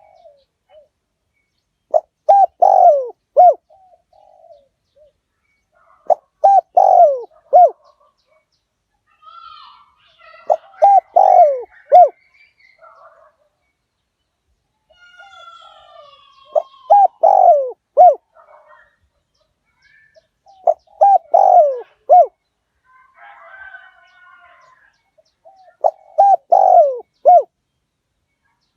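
Spotted dove cooing: a phrase of several short notes repeated six times, about every four to five seconds. Fainter chirps of other birds come between the phrases.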